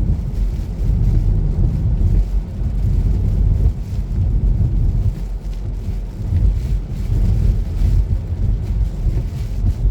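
Car driving on a slippery snow-covered road, heard from inside the cabin: a steady low rumble of tyres and engine that swells and dips.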